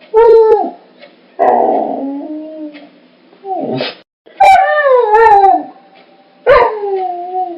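A dog giving five loud yelping barks and howls, each call sliding down in pitch at its end, the second with a rough, growly onset and the fourth drawn out to about a second.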